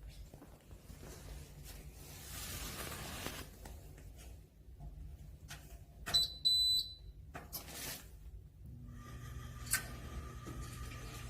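Two short, high electronic beeps from a pellet stove's control panel, followed about two seconds later by a steady hum that starts up and keeps running.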